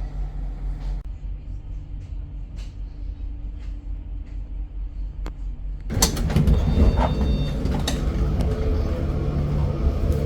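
Passenger train running with a steady low rumble that turns suddenly louder about six seconds in, becoming a clattering rattle with a few brief high ringing tones.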